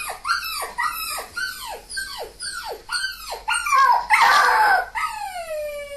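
A voice crying out for a parrot puppet: a run of short cries that each fall in pitch, about two a second, then a louder rasping cry about four seconds in and a long drawn-out wail near the end.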